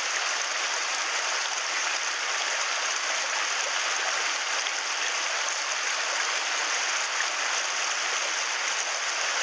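Mountain stream water rushing over rocks, a steady, even hiss of flowing water.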